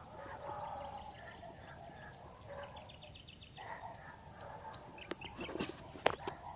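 Birds chirping and calling, with a quick trill about three seconds in. A few sharp clicks or taps come about five to six seconds in.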